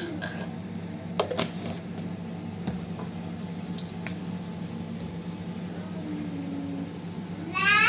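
A few scattered light clicks and taps over a steady low hum, then a young child's high voice starts just before the end.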